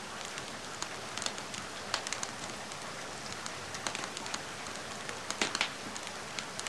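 Steady rain hiss mixed with a wood fire crackling in a fireplace: scattered sharp pops over the rain, the loudest a short cluster about five and a half seconds in.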